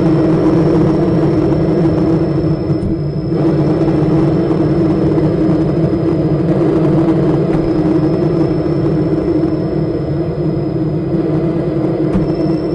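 Mark VII AquaJet GT 700 automatic car wash running: a loud steady rumble of machinery and spraying water, with a thin high whine that wavers slightly in pitch. The hiss briefly drops out about three seconds in.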